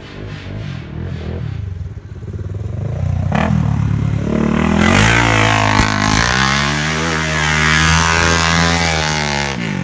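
Off-road vehicle engine running, quieter at first, then accelerating from about three seconds in and holding high revs with a wash of wind and dirt noise, easing off near the end.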